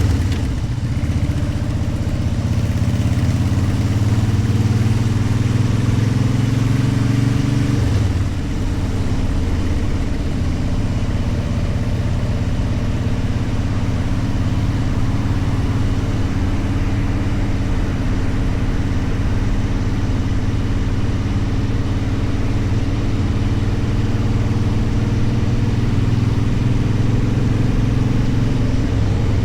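Motorcycle engine running steadily while riding, its note changing about eight seconds in, as with a gear shift or a change of throttle.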